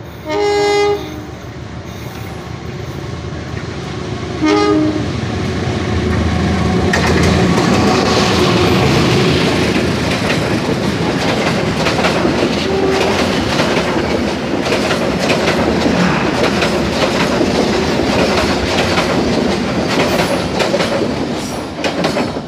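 The approaching Kahuripan passenger train sounds its locomotive horn in a short blast, then a second brief blast about four seconds later. It then runs past on the adjacent track, a loud continuous rush of wagons with the wheels clattering over the rail joints, easing off near the end.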